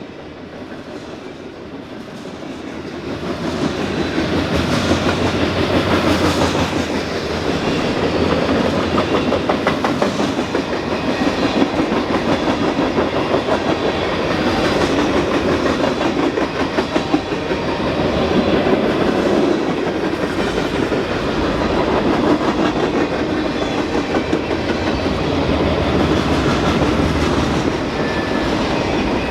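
Freight train cars rolling past, a steady rumble with wheels clicking over the rail joints, growing louder over the first few seconds and then holding steady.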